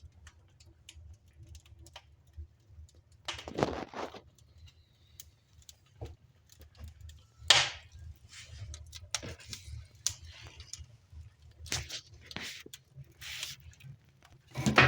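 Wood fire in a newly built fireplace drawing hard up its chimney: a steady low hum, the sign of a strong draught. Scattered crackles, knocks and short rushing noises sound over it.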